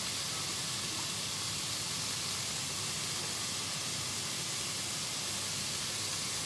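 Stir-fried vegetables sizzling in a hot wok: a steady hiss.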